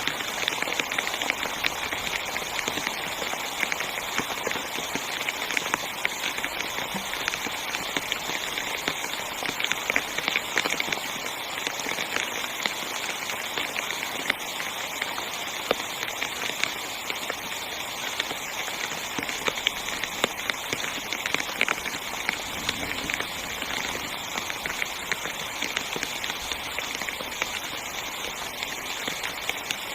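Heavy rain falling on a tent's fabric, heard from inside the tent: a steady hiss with dense, irregular taps of individual drops.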